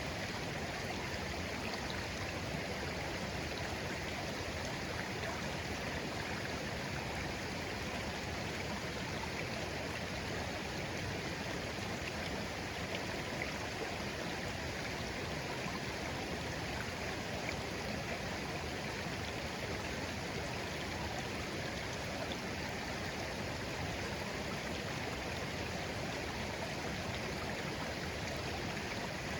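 Shallow clear stream flowing steadily, an even babbling and burbling of water over stones.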